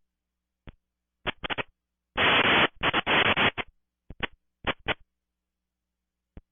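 Air traffic control radio frequency breaking open in a string of short bursts of static with no intelligible words, each cut off by dead silence between them: brief keyed or clipped transmissions on the tower frequency.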